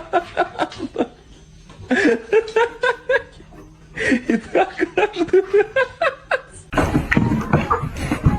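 A person laughing hard in three bouts of quick, choppy pulses, catching breath in between. Near the end it cuts off abruptly into a different, noisier sound.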